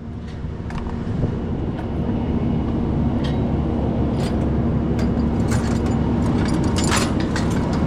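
A diesel engine running steadily with a low hum that builds over the first second and then holds, with a few light sharp clicks over it.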